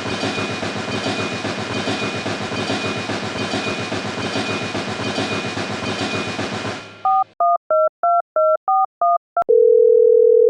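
A steady, fast-rattling mechanical noise that cuts off abruptly about seven seconds in. Then a telephone keypad dials eight quick tones, a click follows, and a steady dial tone sounds.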